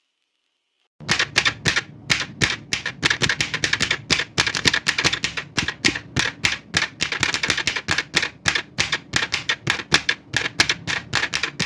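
Old manual typewriter being typed on fast: after about a second of silence, a steady run of sharp key strikes, roughly five a second, typing out a line.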